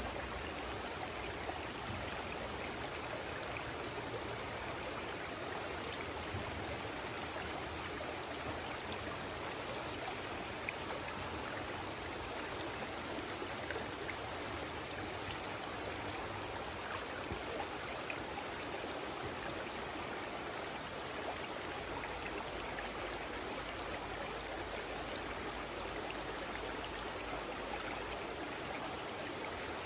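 Water flowing steadily in a stream, an even rushing sound with a few faint drips.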